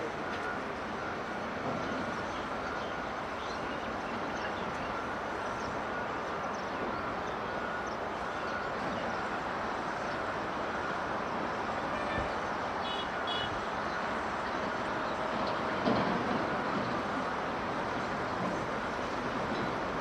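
Airliner jet engines running, a steady roar with a faint high whine.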